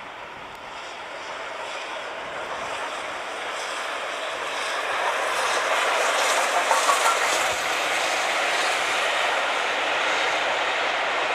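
Steam-hauled passenger train behind A1 Pacific 60163 'Tornado' approaching and running past at speed. The rushing noise of the train grows steadily louder, peaks about six to seven seconds in, then holds.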